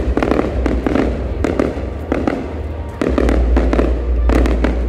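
Aerial firework shells bursting in quick succession: a dense run of bangs and crackles over a steady low rumble, growing louder about three seconds in.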